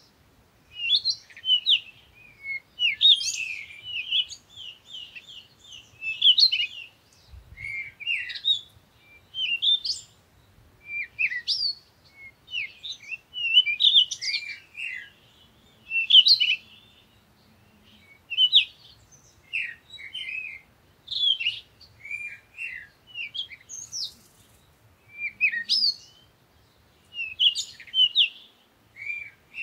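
Birds chirping in short, quick, high-pitched phrases that repeat about every second or two.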